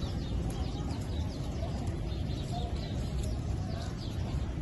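Many small birds chirping, short quick chirps overlapping throughout, over a steady low rumble of outdoor city noise.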